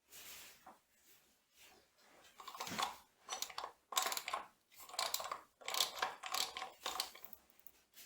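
Metal machine parts being handled: an irregular run of clinks, knocks and scrapes, some with a brief metallic ring, getting busier from about two seconds in.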